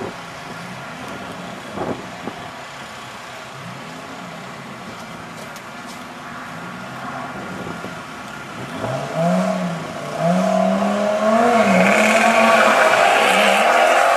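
Lamborghini Gallardo V10 and a nitrous-fed Ford Lightning V8 truck idling and being blipped at the drag-strip staging line, then launching about ten seconds in: the engines rise sharply in pitch and stay loud under hard acceleration.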